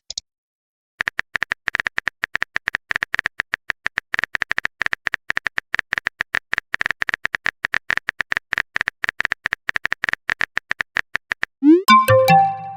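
Rapid, irregular keyboard-typing clicks, as of a message being typed, running for about ten seconds. Near the end a short chat-notification jingle sounds: a rising glide and a few bright notes.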